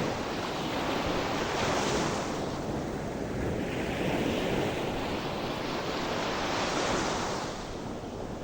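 Sea waves breaking and washing on a shore in steady surf, swelling and easing in a few slow surges.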